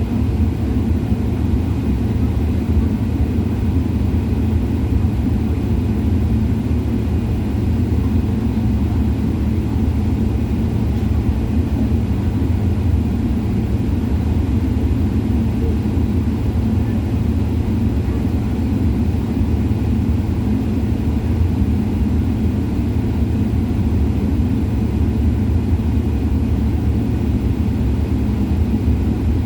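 Airliner cabin noise: a steady low rumble of the engines and airflow, unchanging throughout.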